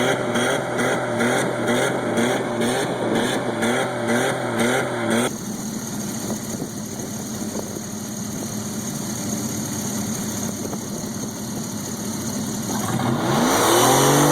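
A vehicle engine is held at high revs, its pitch wobbling about twice a second, and it cuts off abruptly about five seconds in. A quieter stretch of rumbling follows. Near the end an engine revs up loudly and its pitch rises and falls.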